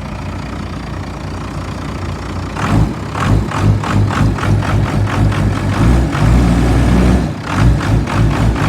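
Cummins 12-valve inline-six diesel idling while warming up after a cold start, running a little rough. From about two and a half seconds in, the sound grows louder and pulses roughly three times a second.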